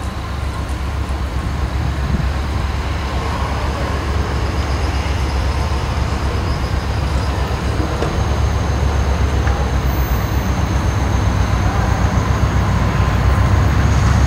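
Diesel-hauled passenger train approaching slowly, a low rumble growing steadily louder as it nears.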